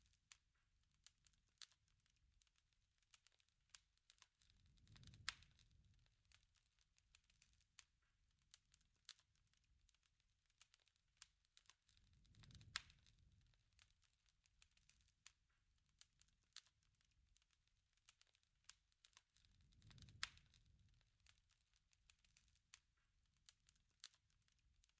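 Faint crackling wood fire: irregular sharp pops and snaps, with a soft low surge about every seven and a half seconds, each peaking in a louder pop.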